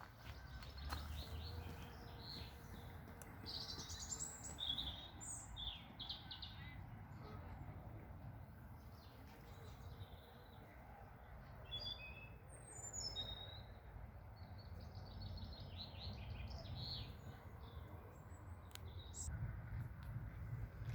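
Small birds singing and calling, with short chirps and trills coming one after another over a steady low rumble.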